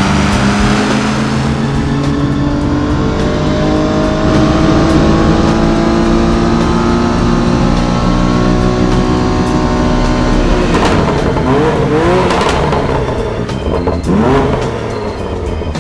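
BMW M2 Competition's twin-turbo 3.0-litre inline-six on a chassis dyno, making a long full-throttle pull, its pitch climbing steadily for about ten seconds toward the 7,000 rpm range. It then comes off the throttle and is revved a few quick times near the end.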